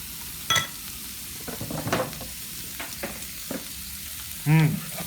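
Steady sizzling hiss of food cooking, with a sharp ringing clink of a utensil on a dish about half a second in and some scraping around two seconds. A short voiced sound near the end is the loudest moment.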